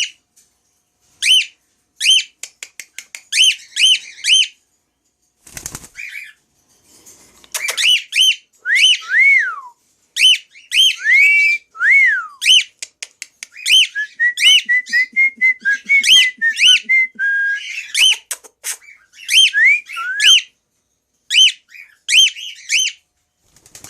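White-faced male cockatiel whistling and chirping: many short, sharp chirps, broken by a few longer whistles that rise and fall. A held, wavering whistle comes midway through.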